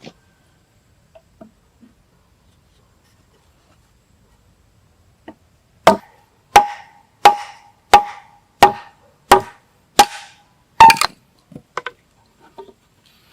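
A blade chopping: about eight hard, evenly spaced blows, roughly one and a half a second, each with a short ring. A doubled blow and a few lighter taps follow near the end.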